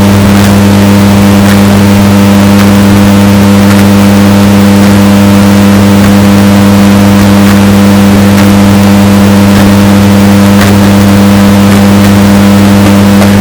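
Washing machine running with a steady motor hum, bass boosted and heavily distorted, with a few faint clicks.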